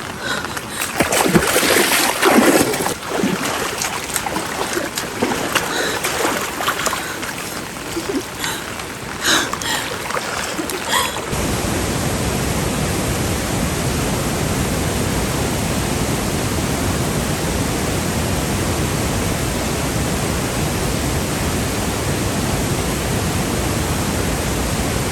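Floodwater sloshing, with irregular splashes for about the first eleven seconds. Then the sound changes suddenly to a steady, even rush of water that carries on unchanged.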